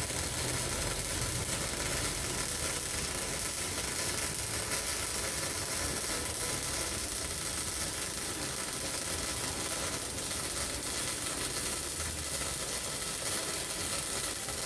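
MIG welding arc on a steel pipe elbow: a steady crackling hiss as the bead is laid.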